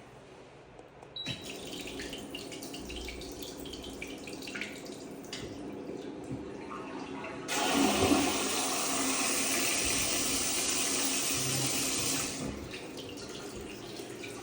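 Smart toilet flushing. Water starts running about a second in, rushes much louder for about five seconds from midway, then drops back to a quieter steady running of water.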